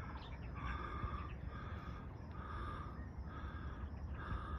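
A person panting hard from exertion: quick, even breaths, about one and a half a second, close to the microphone after climbing steep slopes.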